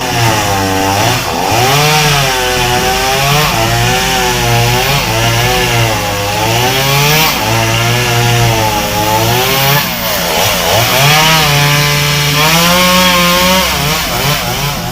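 Chainsaw running and cutting wood, its engine pitch rising and falling over and over.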